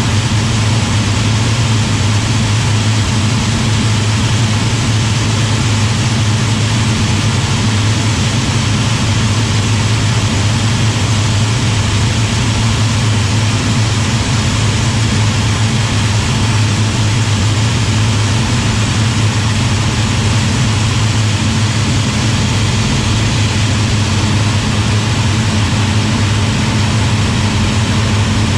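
Hawker Hurricane Mk1's Rolls-Royce Merlin V12 engine and propeller in steady cruise, heard from on board as a loud, even drone over a constant hiss of airflow.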